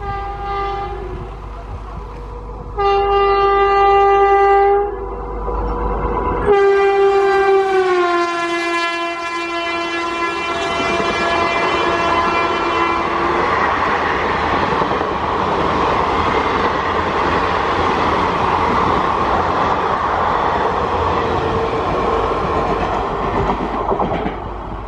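Electric locomotive of an Indian express train sounding its multi-tone horn as it approaches at about 102 km/h: a short blast, then one of about two seconds, then a long blast whose pitch drops as the locomotive passes. The coaches then rush past with steady rail and wheel noise, which falls away near the end.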